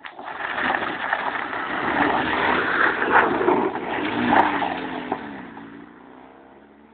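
Car engine revving hard on a dirt track with a loud rushing noise, then the engine note drops and fades over the last couple of seconds.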